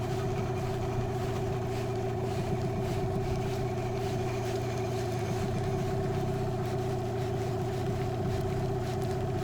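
Boat's outboard motor running at a steady, unchanging speed, as when trolling.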